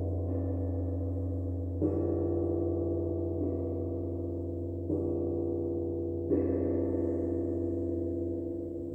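Sound-therapy gong ringing with a deep steady hum and many layered overtones, struck softly again three times, about two, five and six seconds in, each strike bringing the ringing back up.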